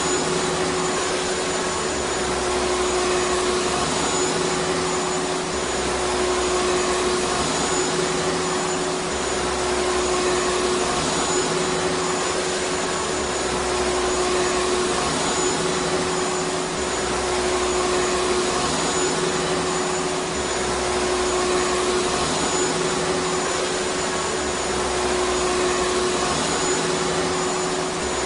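Vacuum cleaner running steadily: a continuous rushing of air with a steady motor hum and a faint high whine, swelling slightly every few seconds.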